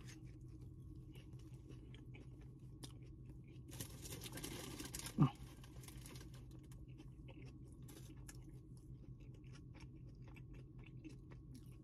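Close-up soft chewing of a sub sandwich, with faint scattered crunchy clicks. About four seconds in there is a breathy rustle, ending in a short falling sound around five seconds in.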